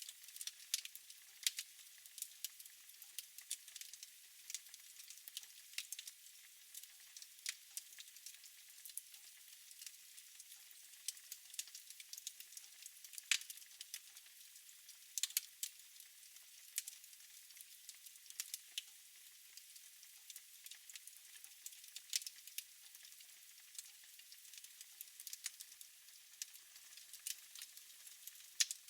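Wood fire crackling in a fireplace: irregular sharp pops and snaps, a few louder ones, over a faint steady hiss.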